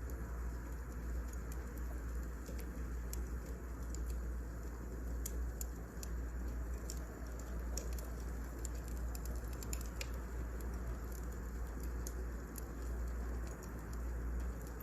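Firewood burning in a fireplace: scattered small irregular crackles and pops over a steady low rumble.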